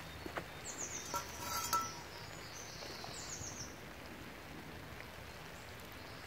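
Faint bird song: two short runs of quick, high, falling notes, about a second in and again about three seconds in, over a quiet forest background with a few light clicks.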